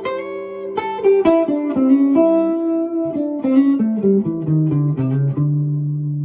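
Guitar playing a blues lick note by note, moving into the lower strings in the second half, using a hammer-on from the minor third to the major third over a major blues.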